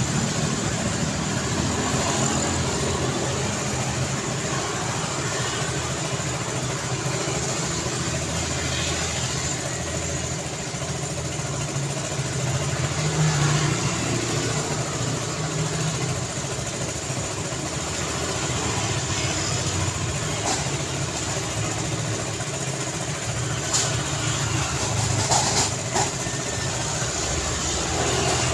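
Road traffic: a steady wash of vehicle engines and tyre noise. It swells as a vehicle passes about halfway through, and a few short knocks or clicks come near the end.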